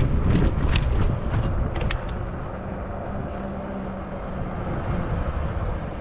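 Low rumble of wind and fat tyres from a moving e-bike, with several light clicks and rattles in the first two seconds. The rumble eases off after about two seconds.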